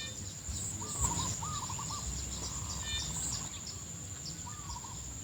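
Outdoor rural ambience: birds give short chirping calls, repeated in quick groups several times, over a steady high-pitched insect drone and a low rumble.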